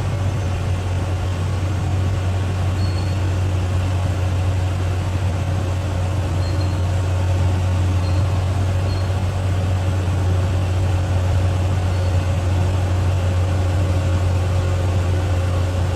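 Bulldozer's diesel engine running steadily, a low even drone with no revving.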